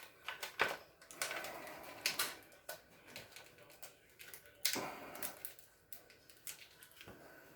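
Irregular clicks, taps and knocks with some rustling: hands working on plastic refrigerator parts, the damper assembly being handled. The sharpest knock comes a little before halfway.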